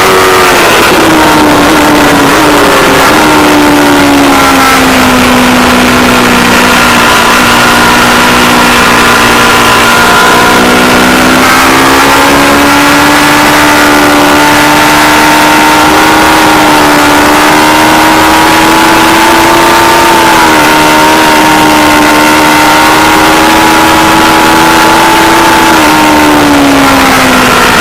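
Aprilia Tuono V4 Factory's V4 engine heard from on board at speed. Its note drops sharply right at the start, stays low for several seconds, climbs again and holds, then falls once more near the end as the bike slows. The recording is loud and distorted, with a steady rush of noise under the engine.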